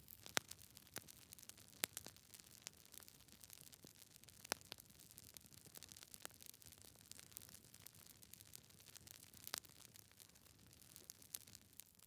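Wood fire burning in a fireplace, logs crackling: irregular sharp pops over a faint hiss, with a few louder pops scattered through.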